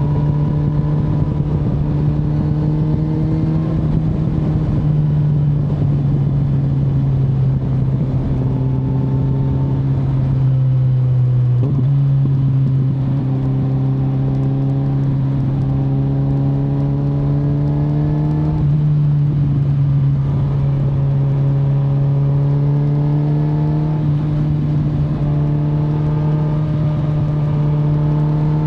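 2025 Kawasaki Z900's inline-four engine running while riding, its note slowly rising and falling with the throttle, with a steady rush of wind and road noise. The engine pitch steps up abruptly twice, about twelve and nineteen seconds in.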